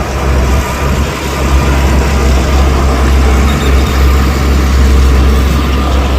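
Heavy diesel engine of an earthmoving machine running, a deep steady rumble that grows louder about a second in.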